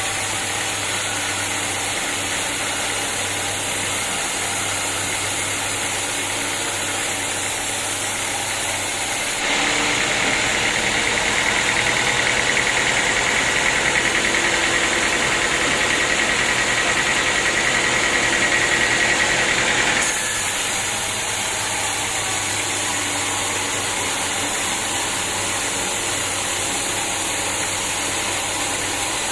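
Sawmill machinery running steadily. About a third of the way in, a louder, higher sawing sound starts as the blade cuts through the wood. It stops abruptly about ten seconds later, leaving the machine running on its own.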